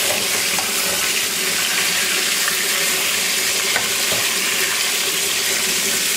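Chicken wings frying in hot oil, a steady sizzle.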